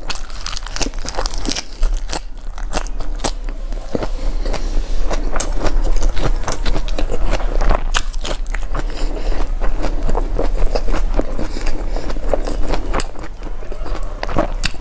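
Close-miked chewing and crunching of food by hand-fed mouthfuls, dense with crisp little crackles: lettuce wrapped around rice, then fried chicken bitten and chewed.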